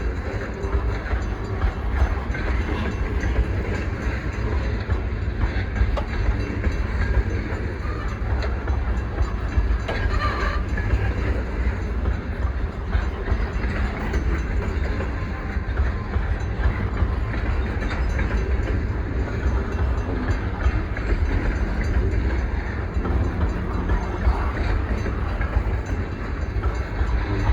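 Sydney Coal Railway coal train rolling past, a steady low rumble of the locomotive and cars on the rails.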